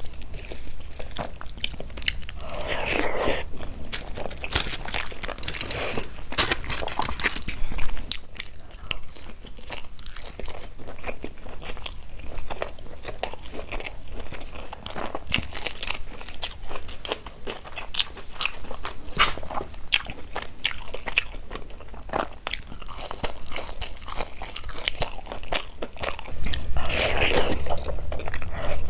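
Close-miked eating sounds of dal and rice: wet chewing with many sharp mouth clicks and smacks. There are busier, louder stretches about three seconds in and near the end.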